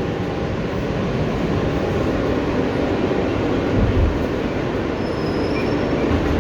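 Inside an R160B Siemens subway car running between stations: the steady rumble of the wheels on the rails and the running gear, with one low thump about four seconds in.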